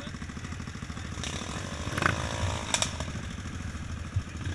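An engine running steadily with a pulsing low rumble. A brief louder noise comes about two seconds in, followed by a couple of sharp clicks.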